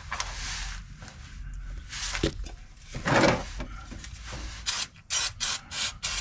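Rubbing and scrubbing noises while a part is cleaned, ending in a quick run of about five short strokes, roughly three a second, near the end.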